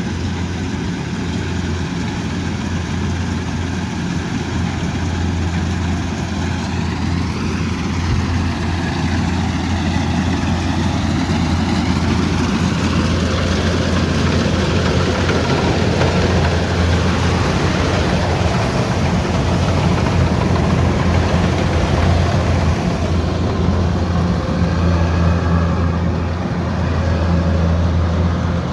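Rice combine harvester running steadily: a loud, continuous diesel engine hum mixed with the noise of the cutting and threshing machinery.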